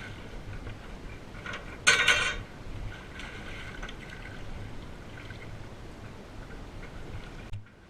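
Water splashing and trickling around a small fishing boat, with one louder splash about two seconds in.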